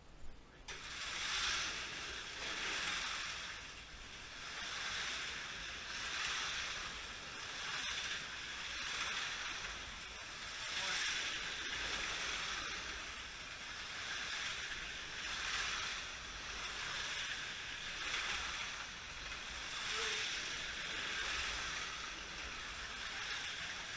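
Electric slot cars running laps on the track, their motors whirring with a rhythmic swell and fade roughly every second and a half as the cars come around past the microphone. The whirring starts just under a second in.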